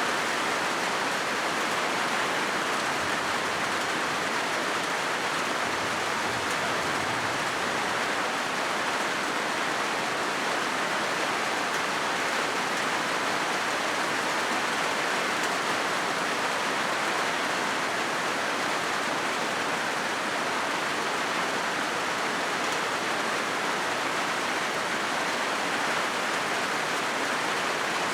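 Rain falling steadily on a corrugated metal roof, an even, unbroken hiss of drops on the sheeting.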